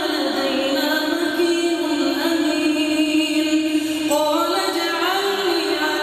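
Melodic Quran recitation by a single voice, holding long drawn-out notes that turn slowly up and down in pitch, with a rising turn about four seconds in.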